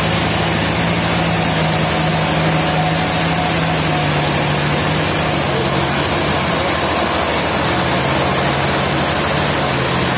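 Sawmill machinery running steadily: a dense mechanical noise over a low engine hum, which drops out about halfway through and comes back later at a slightly lower pitch.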